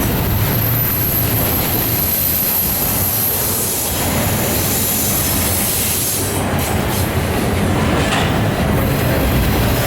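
Norfolk Southern intermodal freight train's cars rolling past: a steady loud rumble and clatter of wheels on rail. A high thin squeal runs through the first half and fades about six seconds in.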